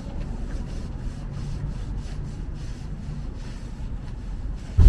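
A brush rubbing in repeated strokes over wooden boards, applying a clear protective coating, over a steady low rumble.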